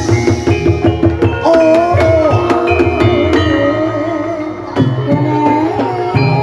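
Javanese gamelan music for an ebeg hobby-horse dance: rapid drum strokes and struck metallophone notes, with a wavering sung melody joining about a second and a half in.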